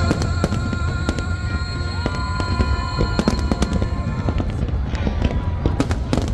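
Fireworks going off in quick succession, many sharp bangs and crackles over a deep rumble, with music playing underneath with held notes.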